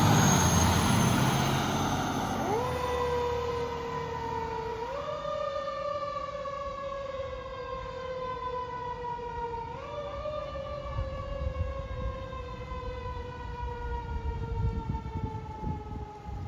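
Fire engine driving away on a call: its engine and road noise fade while its siren wails. The siren's pitch climbs about two and a half seconds in, steps up twice more, and slides slowly down between the steps.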